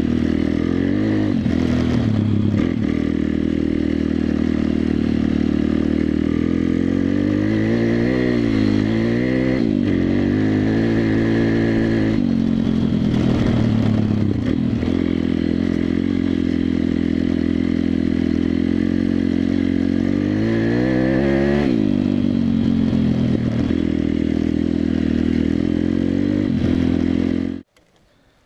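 WPB 140 Race pit bike's single-cylinder four-stroke engine running while riding, mostly at steady revs, with the pitch dropping and climbing again twice, about a third of the way in and again about three quarters through. The sound cuts off suddenly near the end.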